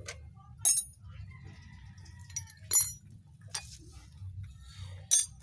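Metal tools clinking as they are handled and set down: four sharp clinks, each with a brief ring, spread across a few seconds.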